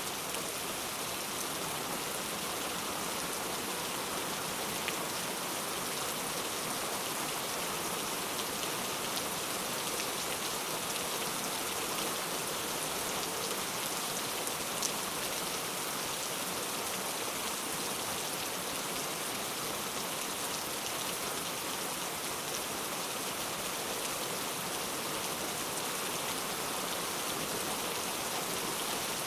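Heavy rain falling steadily, an even hiss with faint scattered ticks of single drops.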